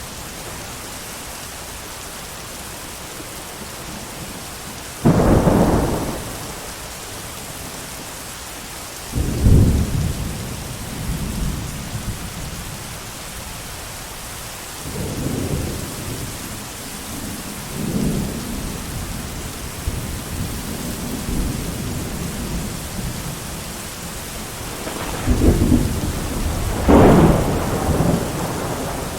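Thunderstorm: steady heavy rain hiss with repeated peals of thunder. Sharp-onset claps about five and nine seconds in, softer rolling rumbles in the middle, and the loudest long rolling peal near the end.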